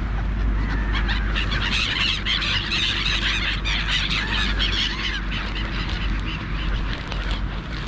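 A flock of gulls calling over one another, many overlapping cries that are densest from about one to five seconds in and then thin out, over a steady low rumble.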